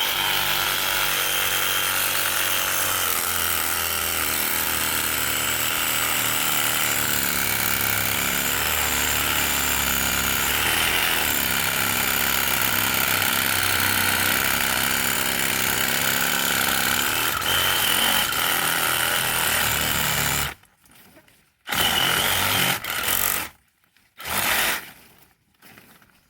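A power saw runs steadily as it cuts through bougainvillea branches and stops suddenly about twenty seconds in. It then runs again in two short bursts near the end.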